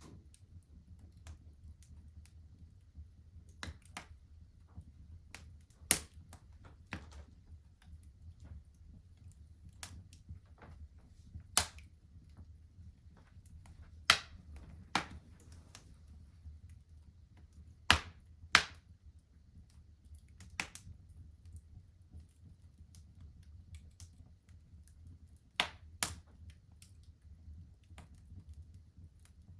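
Fire crackling in a fireplace: irregular sharp pops and snaps, about half a dozen much louder than the rest, over a low steady rumble.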